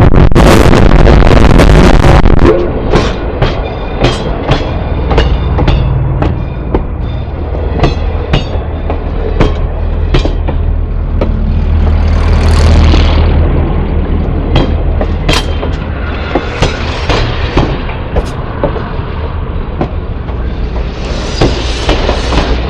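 Southern Railway No. 401, a 2-8-0 Consolidation steam locomotive, passing close by, loud enough to overload the microphone for the first couple of seconds. Then its train rolls past over a steady low rumble, with wheels clicking and knocking over the rail joints.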